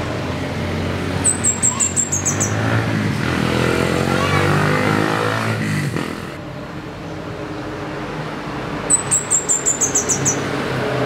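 Scarlet-headed flowerpecker singing twice: each song is a quick run of about eight very high, thin notes, each a little lower than the one before, lasting about a second and a half. A motor vehicle's engine hums underneath, passing by and swelling in the middle.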